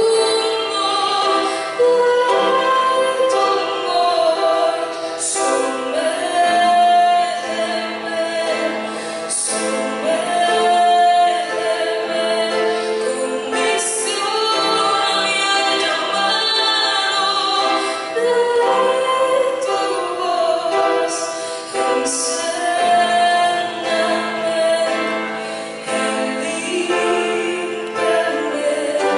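A woman singing a Christian praise song over instrumental backing music.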